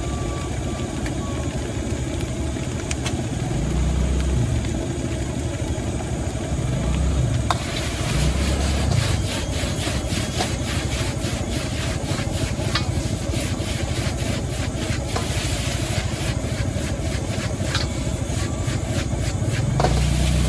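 Stir-frying in a wok over a gas burner: the burner runs with a steady rush, and from about a third of the way in a metal spatula scrapes and tosses the food around the wok in quick, rhythmic strokes.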